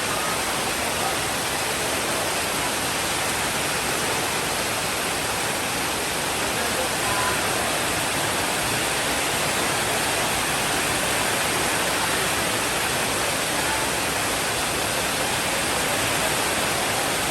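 Steady rainfall, an even unbroken hiss with no thunder claps or rumbles.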